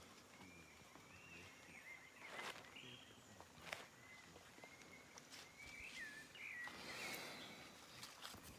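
Faint outdoor ambience with thin, wavering whistled calls and a few soft clicks.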